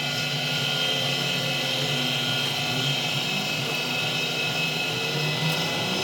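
A machine running steadily with a continuous, even drone made of several held tones.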